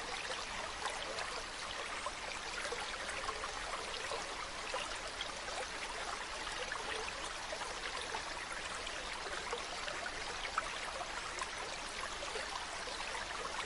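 Mountain stream running over rocks: a steady rush of flowing water with fine splashing and gurgling.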